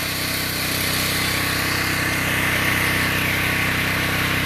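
Pressure-washing rig's generator engine running steadily, with a broad hiss of high-pressure water spray on top.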